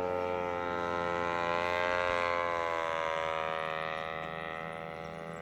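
Two-stroke 52cc brushcutter engine on a styrofoam model airplane, droning steadily in flight; its pitch wavers a little as it moves, and it grows fainter over the last couple of seconds as the plane draws away.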